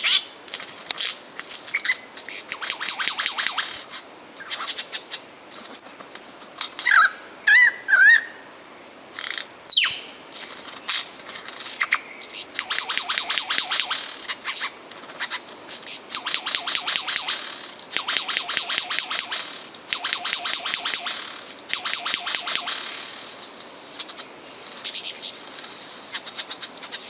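Lyrebird singing a varied mimicry song: repeated fast, dry rattling bursts of a second or two each, a few bending whistled notes in between, and one long steeply falling whistle about ten seconds in.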